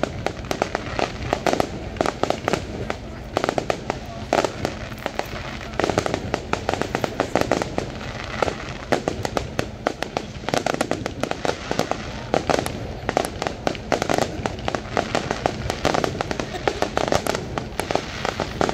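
Aerial fireworks display: a dense, unbroken run of sharp bangs and crackles from shells bursting overhead, several each second.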